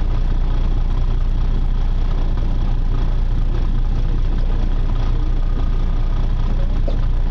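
Charter fishing boat's engine running steadily, a low drone.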